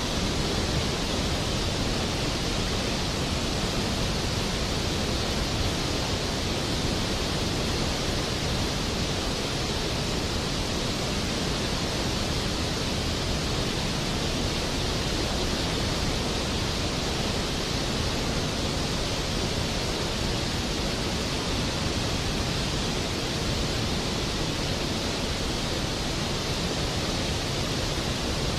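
Steady rain, an even hiss with no thunder claps or changes.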